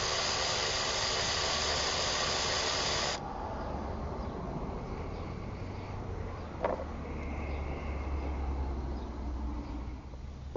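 A steady spraying hiss for about three seconds that starts and stops abruptly, then a single sharp click a little past the middle, over a low steady hum.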